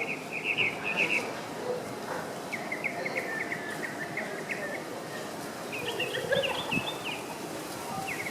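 Tropical mockingbird singing: three phrases of quick, short repeated notes, each phrase a run of the same note over and over, with brief pauses between.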